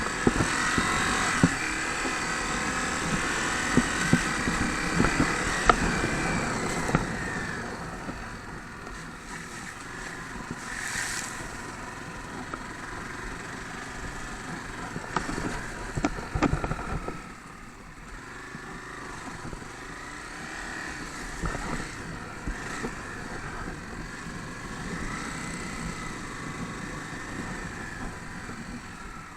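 Honda CRF250 dirt bike's single-cylinder four-stroke engine running and revving, louder for the first seven seconds or so, then quieter, with a few sharp knocks around two-thirds of the way through.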